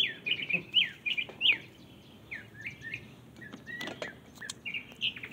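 Birds chirping: a quick run of short, high chirps in the first second and a half, then scattered chirps, with a few faint clicks about four seconds in.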